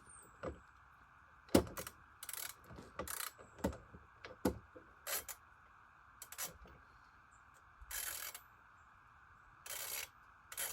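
Ratchet wrench clicking in short strokes as the nuts on an Alaskan chainsaw mill's bar-clamp U-bolts are tightened down snug. Single clicks come through the first half, then two longer runs of rapid clicking near the end.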